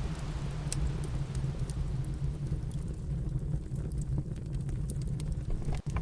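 Crackling fire: scattered sharp pops and snaps over a steady low rumble, with a brief dropout near the end.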